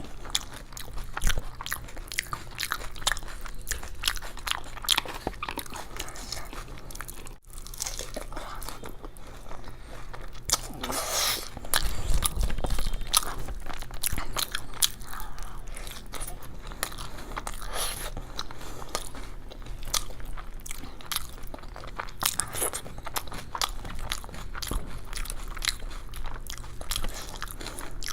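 Close-miked eating of crisp, crunchy food: repeated bites and crunches with chewing, in an irregular stream of sharp crackles.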